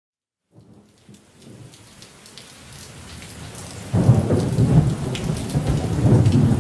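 Rain falling with thunder, fading in from silence and growing louder; a loud, low thunder rumble comes in about four seconds in.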